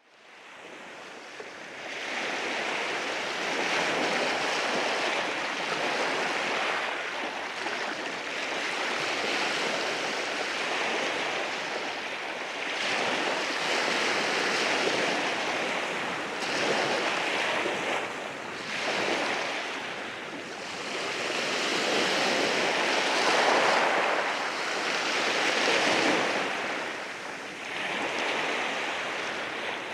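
Sea waves washing in over a rocky shore: a continuous hissing surf that swells and recedes every few seconds, with some wind on the microphone.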